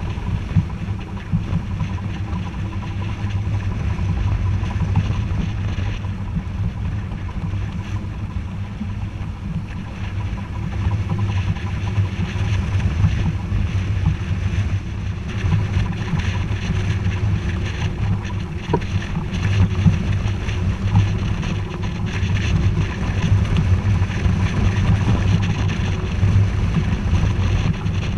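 Wind buffeting the microphone aboard a sailboat under way, a continuous gusty low rumble over the hiss of water and wind.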